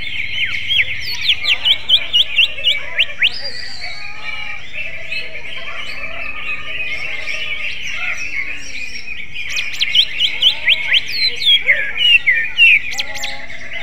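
Cucak ijo (green leafbird) singing in two bouts of rapid, sharp chirps and whistles, mimicking kacer (magpie robin) phrases. A steady, dense high twittering runs underneath.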